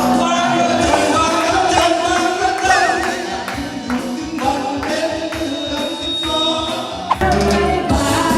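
Karaoke backing music with a steady beat and a singing voice over a microphone; the bass line drops out for a while and comes back strongly about seven seconds in.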